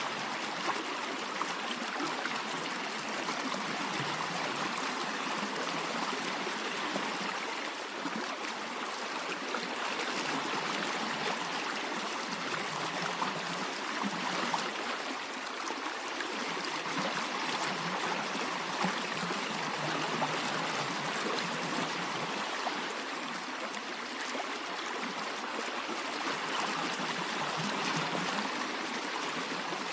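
A stream running steadily, an even rushing and trickling of water without pause.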